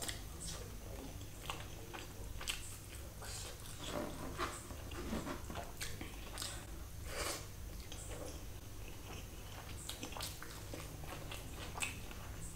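A person chewing a mouthful of chicken biryani with the mouth open, in scattered short wet smacks and clicks.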